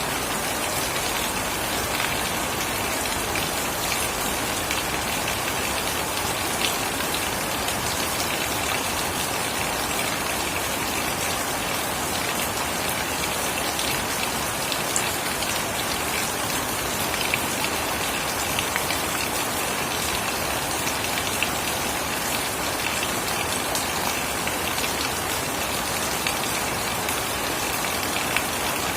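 Steady heavy rain falling, a dense even hiss with scattered drop splashes and ticks.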